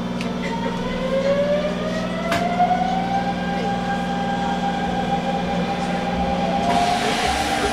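Hanshin Railway local train's traction motors whining as the train accelerates, the whine rising in pitch over the first few seconds and then levelling off over a steady low hum. A louder rush of running noise builds near the end.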